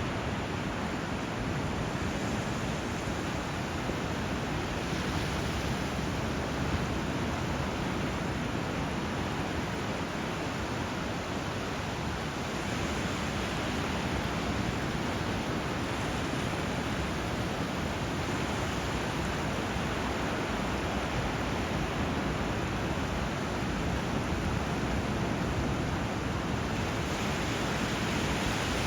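Steady rush of flowing river water and sea surf, an even hiss with no separate events standing out.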